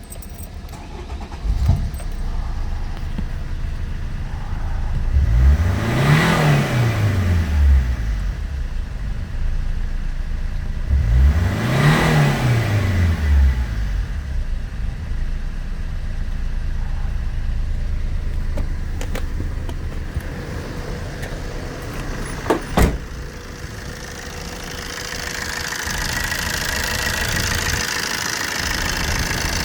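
Opel Combo C 1.3 CDTi (Z13DTJ) four-cylinder turbodiesel starting up, then revved twice, each time rising and falling back, before settling to a steady idle. There is a sharp knock about two-thirds of the way in, and a hiss comes up near the end.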